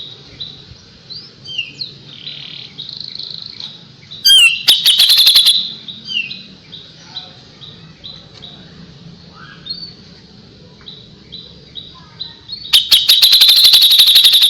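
Kapas tembak songbird singing: a run of short, repeated chirps, broken twice by loud bursts of rapid-fire notes, the 'tembakan', one about four seconds in and another starting near the end.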